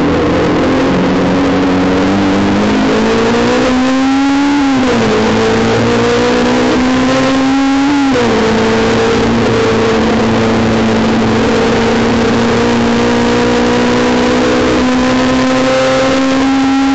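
Honda S2000's high-revving four-cylinder VTEC engine heard from inside the cabin, pulling hard under full throttle on a race lap. The revs climb, drop sharply at upshifts about five and eight seconds in, then climb slowly again at high rpm.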